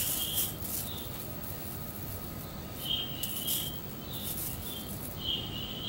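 A bird gives short high chirps three times, a couple of seconds apart, over a soft rustle of a plastic sheet and fresh noodles being handled in a basket.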